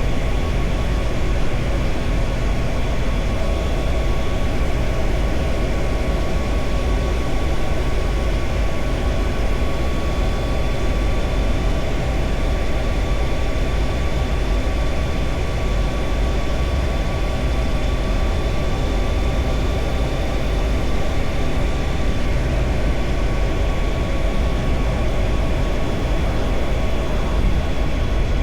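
Triumph Tiger Sport 660's three-cylinder engine running at a steady cruise, with heavy wind rush on the microphone.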